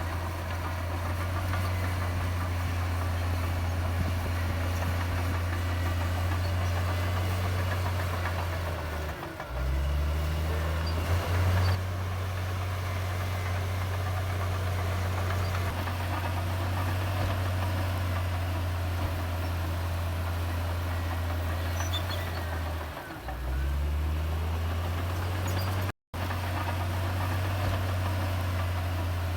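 Heavy diesel engine of earthmoving machinery running steadily with a deep hum. Twice its pitch sags briefly and then climbs back up, as if under load or shifting. The sound cuts out for a split second near the end.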